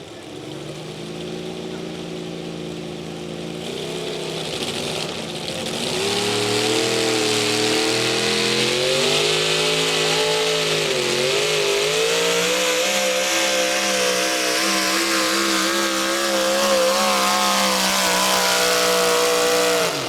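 Modified 4x4 pulling truck's engine at full throttle on a sled pull: the revs build over the first few seconds, waver with a brief dip about halfway, hold high, then cut off suddenly as the run ends.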